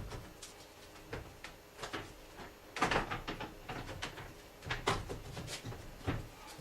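Scattered knocks and clunks of tools and parts being handled during work on a car, the loudest about three and five seconds in.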